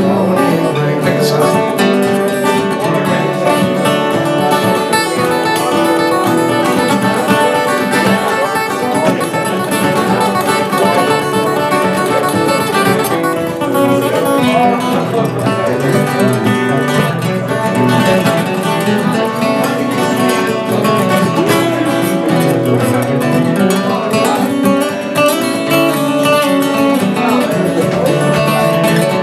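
Acoustic guitars playing an instrumental break in a country-folk song, a picked lead line over steady rhythm guitar.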